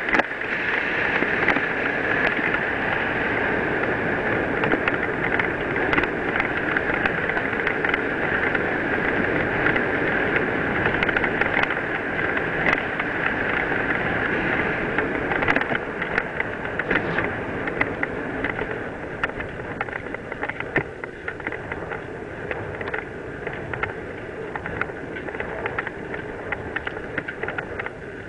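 Mountain bike descending a dirt and gravel trail: steady tyre rumble on loose ground with the bike rattling and knocking over bumps. It eases off a little after about halfway.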